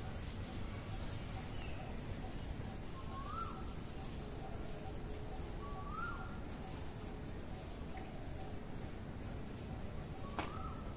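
Birds calling: a short high chirp repeated about once a second, and three times a lower rising note, over faint steady background noise.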